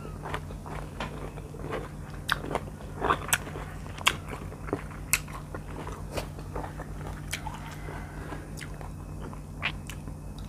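Close-miked chewing of soft, ripe mango flesh: scattered wet mouth clicks and smacks over a steady low hum.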